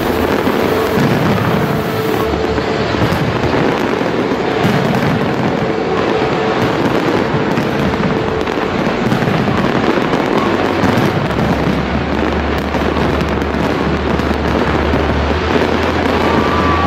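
Fireworks display going off without a pause, a dense, loud, continuous barrage of bangs and crackles, with music faintly beneath.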